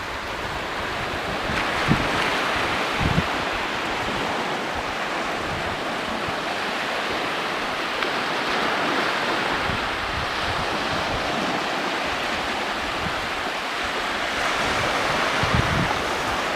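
Sea surf washing steadily on a shore, swelling and easing gently, with wind buffeting the microphone in a few low gusts.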